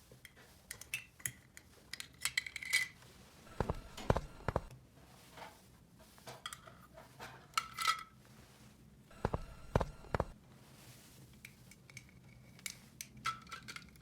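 Small plastic toy pieces being handled and set down: irregular clicks, taps and light clinks, some with a brief ringing note.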